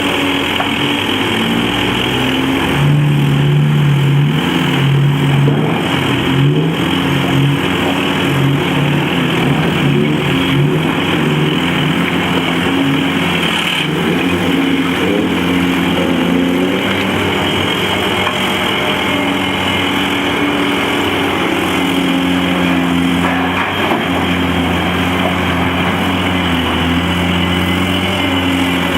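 Heavy diesel engines of a large excavator and haul truck working, the engine note rising and falling repeatedly under load, loudest a few seconds in.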